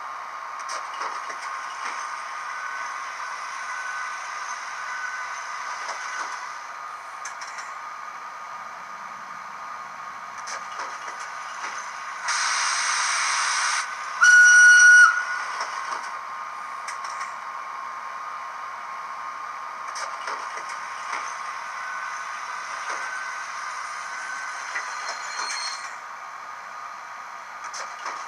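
Sound effects from a model Swiss locomotive's onboard sound system at standstill: a steady hum with scattered light clicks, a burst of air hiss about halfway through, then one short high whistle blast, the loudest sound, a moment later.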